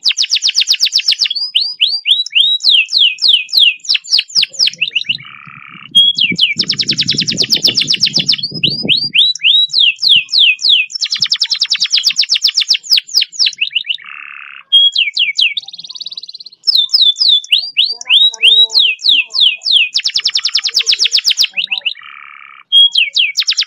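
Domestic canary singing a long rolling song. Very fast trills of rapidly repeated notes alternate with runs of quick sweeping whistles at about five a second, with short buzzy notes and brief breaks between phrases. It is the long 'speed roll' style of canary song used as a masteran to train or stir other canaries to sing.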